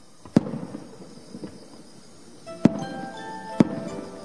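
Aerial firework shells bursting: three sharp booms, the first followed by a short crackle. From about two and a half seconds in, a set of steady ringing tones at several pitches sounds under the booms, like chimes.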